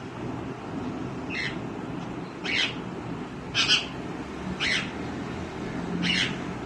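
Green ringneck parrot (rose-ringed parakeet) giving five short, shrill calls about a second apart, the loudest near the middle.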